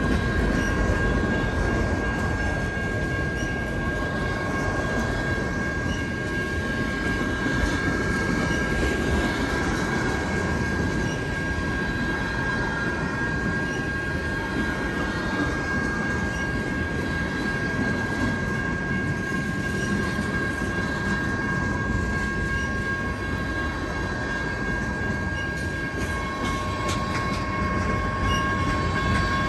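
Freight train rolling through a grade crossing: a steady rolling noise of the passing cars and wheels on the rails. A thin high tone holds over it, and a second, lower tone joins near the end.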